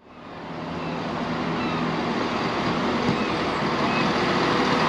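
A vehicle engine running with a steady low hum under a rushing background noise, fading in over the first second.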